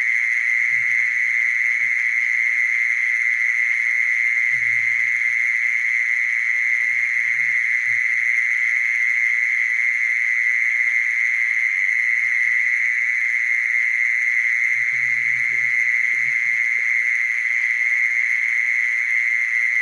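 Mole cricket singing: one continuous, unbroken trill held at a steady high pitch.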